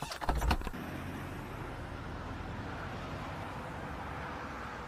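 Steady vehicle noise as heard from a dashcam in a car, with a few knocks and a short low thump in the first second.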